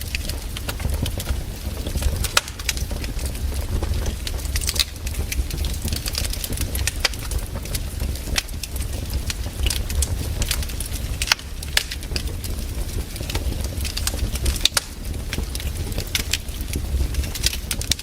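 Wood campfire burning: irregular sharp crackles and pops from the burning wood, several a second, over a steady low rumble.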